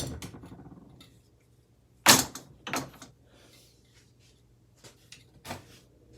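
Sharp knocks on a ceiling fan motor's metal housing as its stubborn parts are forced apart: two loud knocks about two seconds in, then a few fainter ones near the end.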